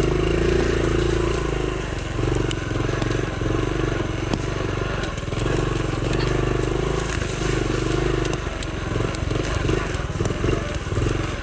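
Honda CT70's small single-cylinder four-stroke engine running at low speed, the throttle opening and easing off every second or two, with scattered clicks and crunches over rough ground. Toward the end the running turns uneven and pulsing.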